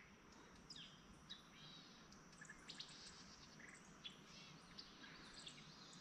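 Near silence with faint, scattered bird chirps: short, separate calls a few times a second apart.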